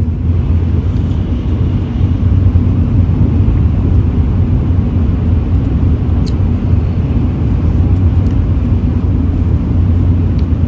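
Steady low rumble of a Shinkansen bullet train running, heard inside the passenger cabin, with one small click about six seconds in.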